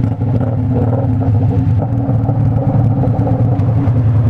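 Naked sport bike's engine running steadily, an even rumble with no revving.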